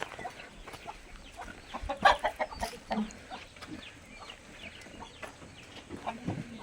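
Chickens clucking on a farm, with short scattered calls; the loudest burst of calls comes about two seconds in.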